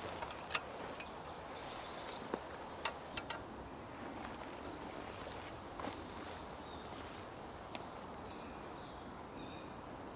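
Quiet woodland ambience with small birds chirping in short high notes throughout, and a few sharp clicks or knocks.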